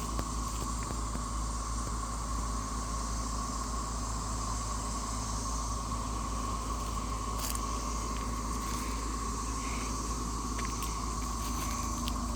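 Chorus of periodical cicadas from a mass emergence: a steady, unbroken drone, with a low rumble underneath and a few faint clicks.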